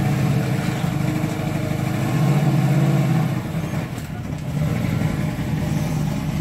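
1969 Camaro Z28's V8 engine running at low revs as the car is driven up the ramps onto a car trailer. It gets a little louder about two to three seconds in and eases off briefly around four seconds.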